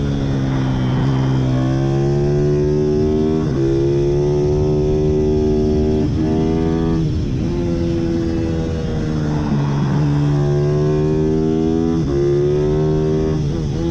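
Pit bike's small single-cylinder engine running hard, its pitch climbing as it revs out and dropping sharply at each gear change or throttle lift, several times over.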